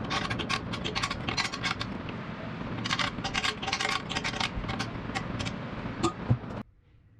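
Rapid clicking and scraping, as of small metal parts and hand tools being handled, in irregular runs. It cuts off abruptly near the end.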